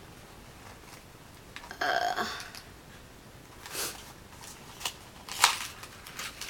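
Tea packaging being handled: a short pitched sound about two seconds in, then a few brief rustles and crinkles.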